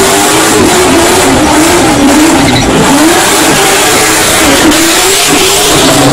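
A car doing a burnout: the engine is held at high revs, its pitch wavering up and down as the throttle is worked, over a loud steady hiss of spinning tyres.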